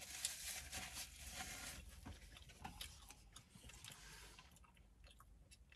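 Faint eating sounds: chewing with many small mouth clicks and crackles, dying away after about four and a half seconds.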